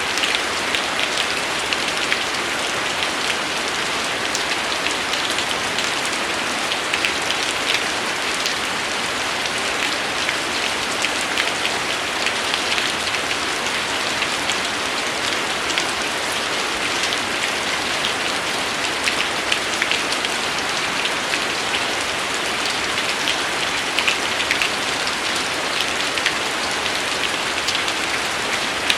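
Steady rain falling, with many close individual drops pattering on a surface among the even hiss of the downpour.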